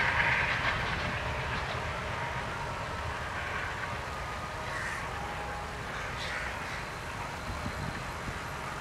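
Indian Railways diesel-hauled train receding after passing, its rumble fading away into a steady low background, with a few short bird calls.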